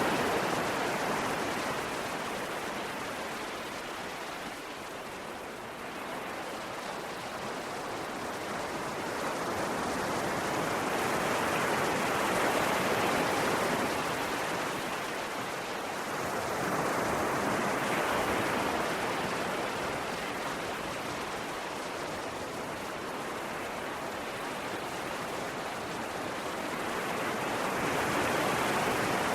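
Ocean waves washing on a shore: a steady surf hiss that swells and ebbs slowly, with waves cresting about 12 seconds in, about 18 seconds in and near the end.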